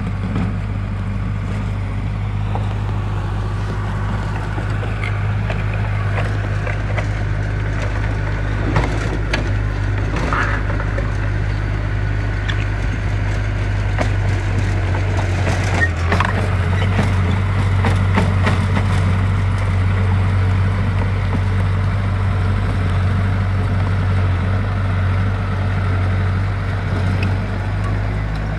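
Engine of a heavy earthmoving machine running steadily at a constant low pitch, with scattered knocks and scraping through the middle stretch.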